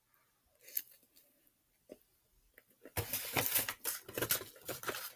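Close, dense crunching and crackling starting about three seconds in, as the fried chicken sandwich is handled. Before that, near silence with one faint tick.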